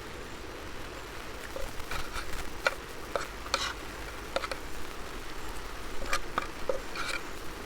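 Scattered light clicks and taps, about a dozen at irregular intervals, over a steady background hiss.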